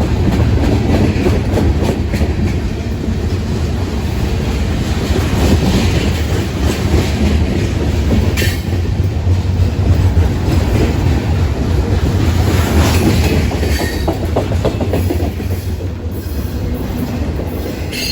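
Slow freight train rolling past at close range, its wheels clacking over the rail joints with a steady low rumble and occasional sharp clicks.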